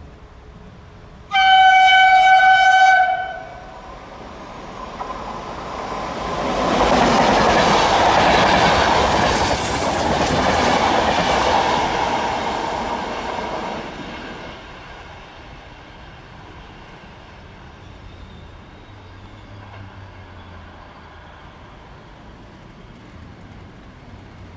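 E 464 electric locomotive sounds one steady-note horn blast of about a second and a half, then the locomotive and its train of passenger coaches pass with a rising and fading rush of wheels on rail, with a brief high squeal about ten seconds in.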